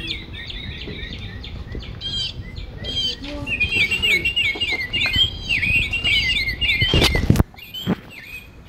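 Bird chirping and twittering, a dense run of quick high chirps. A brief loud rush of noise breaks in about seven seconds in.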